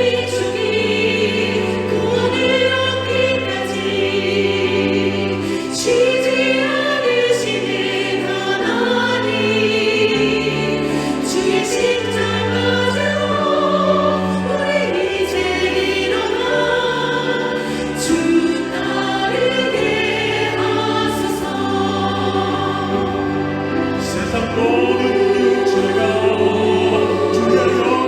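Slow sacred ensemble music: sustained melody lines with vibrato over a bass line that moves to a new note every second or two.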